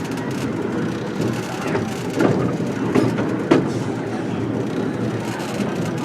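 Train running along the track: a steady rumble with a few sharp knocks from the wheels on the rails.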